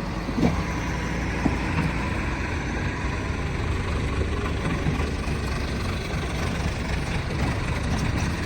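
Heavy diesel engine of the earthmoving machinery running steadily, with two brief knocks about half a second and a second and a half in.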